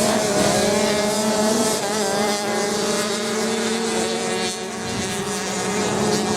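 Racing motorcycle engines running, several engine notes overlapping at once.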